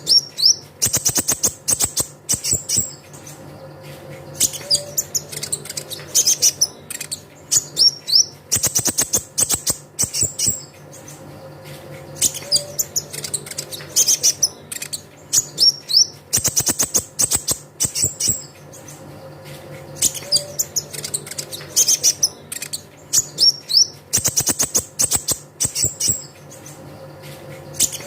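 Konin (kolibri ninja) sunbird song: fast, high, clicking trills and sharp chirps in clusters, the same phrase sequence repeating about every eight seconds like a looped lure recording, over a faint steady low hum.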